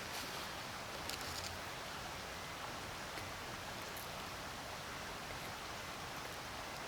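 Steady, even outdoor hiss, with a few faint clicks a little over a second in.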